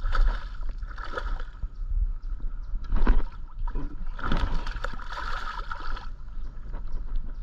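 Water splashing in several irregular bursts as a hooked largemouth bass is fought and brought to the kayak, over a steady low rumble of wind on the microphone.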